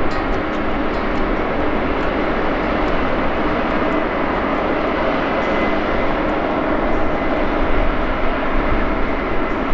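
Case combine running steadily in a wheat field, a dense even engine and machinery drone.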